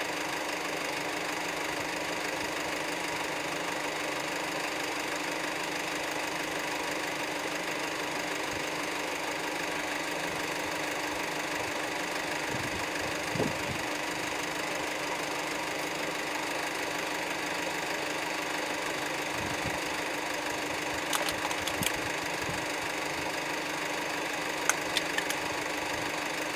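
A vehicle engine idling steadily, with a low thump about halfway through and a few sharp clicks near the end.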